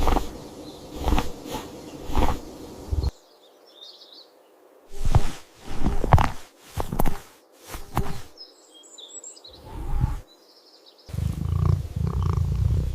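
A string of thumps, then faint bird chirps in two quieter gaps, and from near the end a cat's steady low purr.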